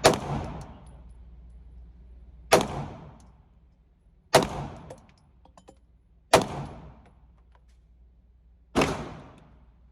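Glock 19 pistol firing single, deliberately paced shots, four of them about two seconds apart. Each crack has a short trailing echo.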